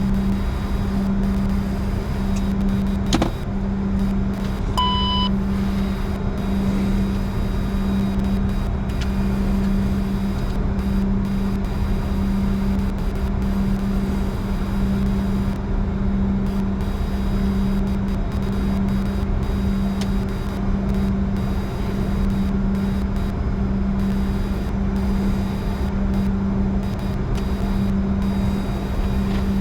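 Steady cockpit drone of a Bombardier Challenger 605 with its two GE CF34 turbofans idling, just after start, carrying a deep, slightly pulsing hum. A click about three seconds in and a short electronic beep about five seconds in.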